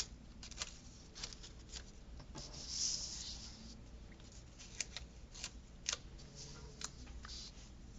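Paper stickers and planner pages being handled: scattered light clicks and taps as stickers are peeled and pressed down, with a soft rustle about three seconds in.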